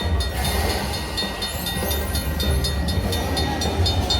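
Train sound effect from a Buffalo Cash Express Luxury Line slot machine: a locomotive rumbling along with a fast, even clicking, as the game's train runs across the reels.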